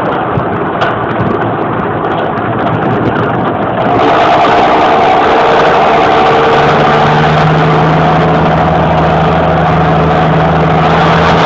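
John Deere 6820 tractor's six-cylinder diesel running with no muffler, an open, unsilenced exhaust. It runs steadily and gets louder and fuller about four seconds in, then holds a steady note.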